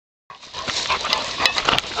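Animal sounds over a noisy background, with several sharp clicks, starting a moment in.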